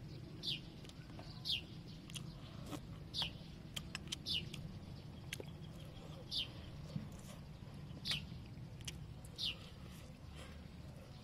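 A bird repeating a short, high, falling chirp about every second or two, over the soft clicks and smacks of someone biting and chewing a fried chicken leg.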